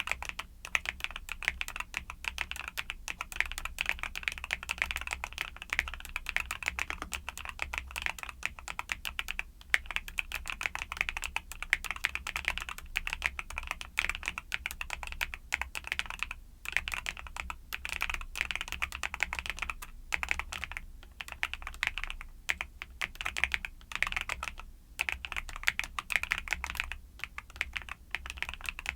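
Fast continuous typing on a YUNZII mechanical keyboard with Cocoa Cream switches, the keys clacking in quick runs with a few brief pauses.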